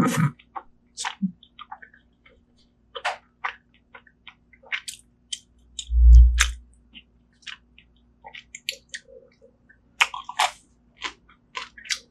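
Close-miked chewing of soft braised seafood: irregular wet mouth clicks and crackles, with one low thump about six seconds in.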